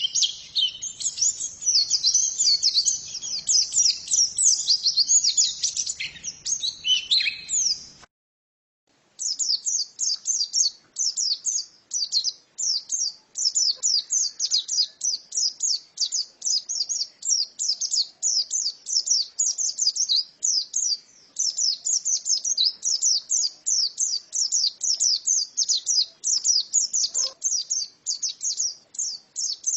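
Female white-eye (pleci) singing a long, fast twittering song of high chirps. It breaks off about eight seconds in for about a second, then carries on in an even run of quick chirps.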